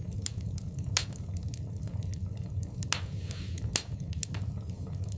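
Wood fire burning in a fireplace, with a steady low rumble and irregular sharp crackles and pops, the loudest about a second in and near the four-second mark.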